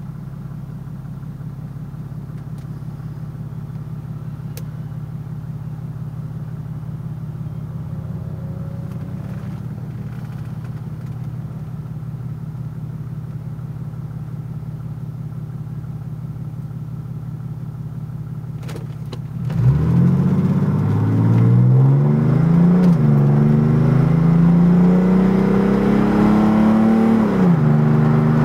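1986 Mercedes-Benz 300SDL's 3.0-litre inline-six turbodiesel through a straight-pipe exhaust, heard inside the closed cabin: it runs steadily for most of the time, then gets suddenly louder as it is floored, the pitch climbing and dropping back at two upshifts of the automatic gearbox.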